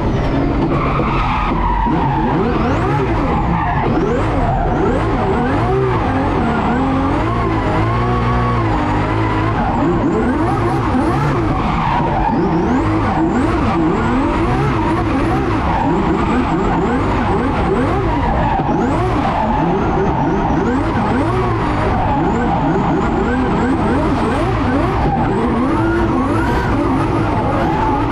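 Several car engines revving and accelerating, their pitches rising and falling over one another, over heavy tyre and road noise.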